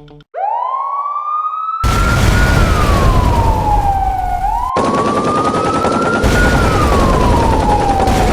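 Police siren wailing, rising and then falling slowly in long sweeps that repeat about every four seconds. About two seconds in, a loud dense noise joins it and carries on under the siren.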